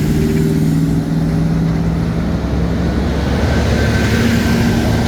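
Motor vehicle engines running close by on the street, with road traffic noise. The engine pitch changes partway through, as one vehicle gives way to another.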